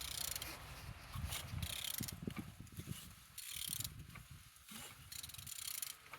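A Hyundai G4EE engine being turned over by hand with a ratchet wrench on the crankshaft, in repeated strokes with ratchet clicking and the internals rotating. It turns freely, which here serves as a check that the engine is not seized.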